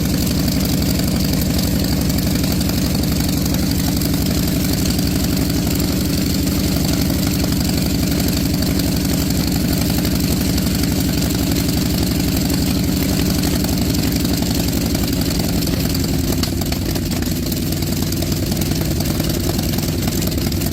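Radial engine running steadily after its startup, with rapid even firing pulses; it eases slightly lower in pitch and level near the end.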